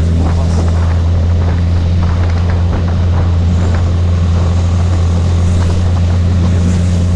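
Sport motorcycle engine running at a steady low speed while riding in slow traffic, a constant low drone with road and wind noise over it.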